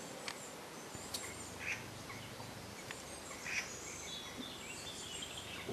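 Short bird calls over faint outdoor background noise: two brief calls in the first half, then a few thin, higher chirps later on.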